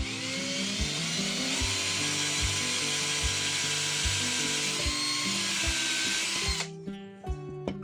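An electric power tool running for about six and a half seconds, its motor spinning up at the start and stopping abruptly, over background music with a steady beat.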